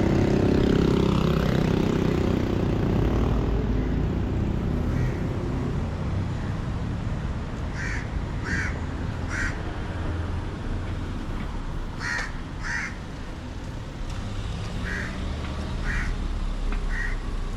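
A motor vehicle runs and fades away over the first few seconds. A bird then calls repeatedly in short calls, in bunches of two or three, from about halfway through.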